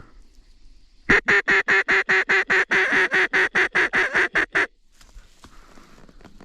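Mallard duck call blown in a fast run of about twenty evenly spaced, loud quacks, about six a second. It starts about a second in and stops sharply after about four and a half seconds.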